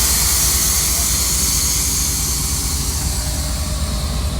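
Truck air-ride suspension hissing as compressed air rushes through its airbag valves, a loud hiss that slowly fades, over a steady low hum.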